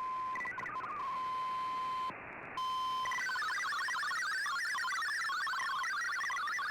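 Digital data signal from a shortwave receiver. A steady single carrier tone is broken by a few quick tone steps and a brief burst of static. About three seconds in it changes to a fast, warbling stream of hopping multi-tone MFSK data from the Shortwave Radiogram transmission.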